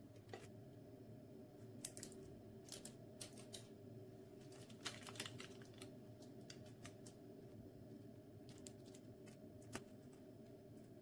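Faint, irregular light clicks and taps, some in quick little clusters, over a low steady hum.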